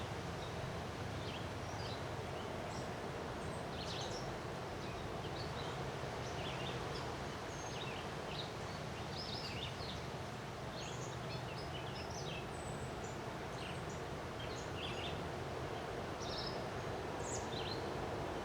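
Steady wind noise with a low rumble, and many short, high bird chirps scattered throughout.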